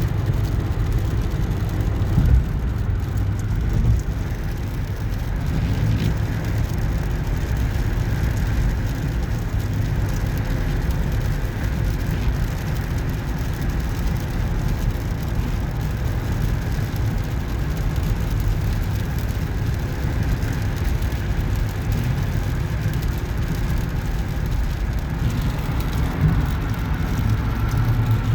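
Steady low rumble of road and engine noise inside a moving vehicle at highway speed, with a couple of brief bumps in the first few seconds.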